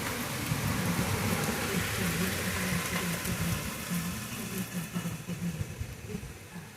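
Rain falling in a steady downpour, a continuous hiss that eases somewhat toward the end.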